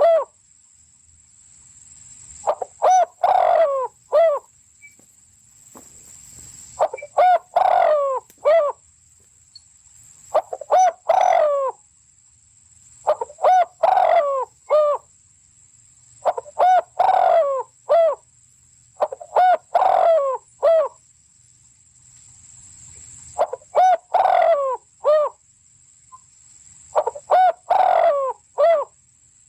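A bird call, each a quick run of four or five notes, repeated at steady intervals about every three to four seconds, eight times in all, over a faint steady high whine.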